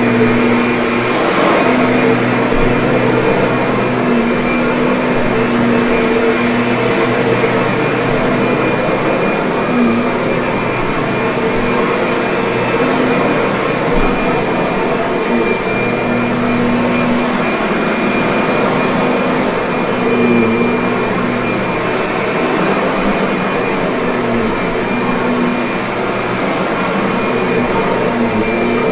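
Kirby upright vacuum cleaner running steadily, its motor giving a constant whirring hum with a steady low tone.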